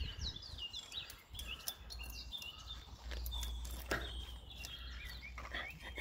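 Birds chirping: short, repeated high calls, with a few light clicks and knocks.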